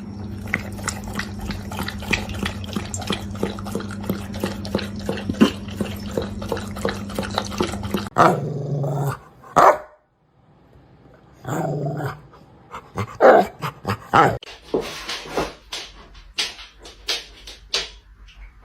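Dogs growling and barking in short bursts, mostly in the second half. The first half holds a steady low hum with a rapid clicking.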